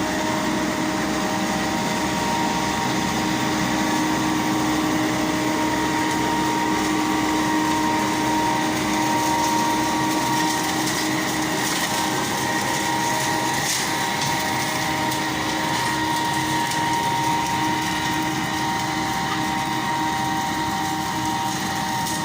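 Tractor engine running steadily, with a held whine over the engine noise.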